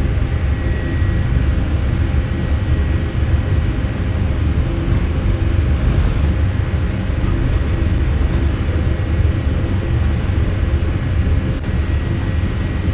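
Boeing 787-8 jet engine noise heard inside the cabin: a steady, even low rumble with faint high whines above it.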